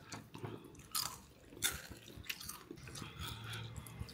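A person chewing a mouthful of lemon rice eaten by hand, with a few sharp clicks of the mouth, the clearest about a second in and again shortly after.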